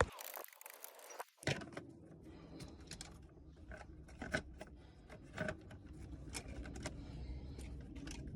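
Faint, scattered small clicks and handling noise of hands working in a car engine bay, pulling spark plug HT leads off. It starts with a second or so of dead silence.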